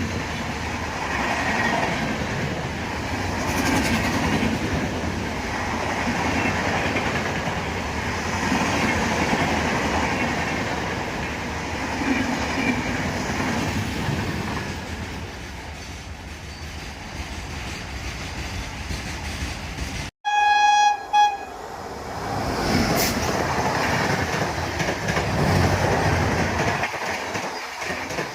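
Indian Railways express train passing at speed, a continuous rush of wheels on the rails. About twenty seconds in the sound cuts out abruptly. A loud horn blast of about a second follows, then the passing noise resumes.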